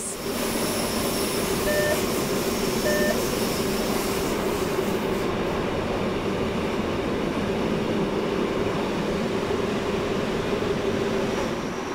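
Rhaetian Railway metre-gauge regional express running at speed, heard from aboard the train: a steady rumble of wheels on the rails with a constant hum.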